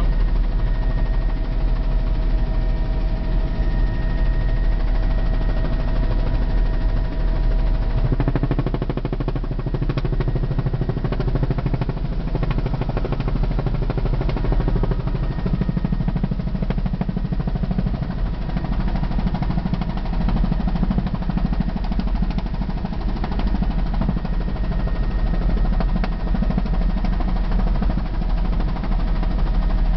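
Helicopter rotor and engine noise heard from inside the cabin in flight: a steady, loud drone with a fast throb, changing a little in tone about eight seconds in.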